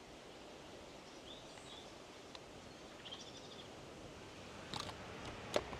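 Faint outdoor background with a few distant bird chirps, then two sharp clicks near the end, the second the loudest.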